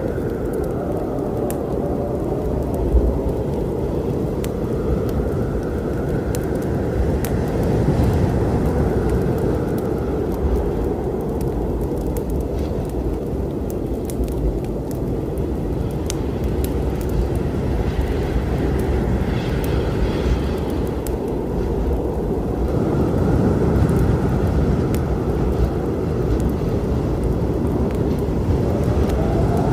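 Storm wind rumbling steadily, with gusts that swell and fade in a faint howl every few seconds, layered over the scattered pops and crackles of a wood fire.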